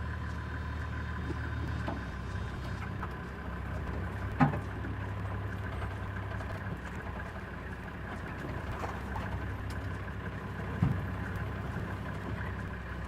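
Vehicle engine idling steadily with a low hum, with two short sharp knocks, one a little over four seconds in and one near eleven seconds.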